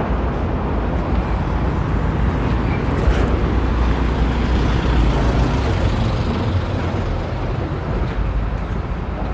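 Street traffic: a motor vehicle's engine and tyre rumble passing close by, growing to a peak about halfway through and then fading slowly.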